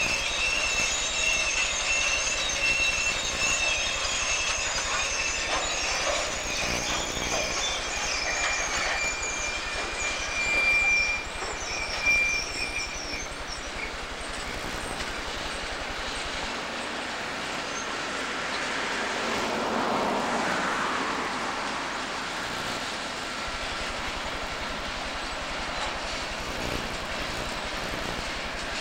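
Freight train cars rolling past on the rails. The wheels squeal in high, wavering tones for about the first half, then the squeal fades and the steady rolling rumble and clatter go on.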